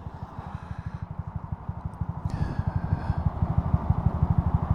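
Honda Super Cub C125's small air-cooled single-cylinder four-stroke engine running under way, a steady run of low, even firing pulses that grows louder over the few seconds.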